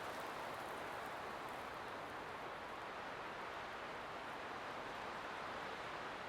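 Light wind blowing as a steady, even rush without gusts.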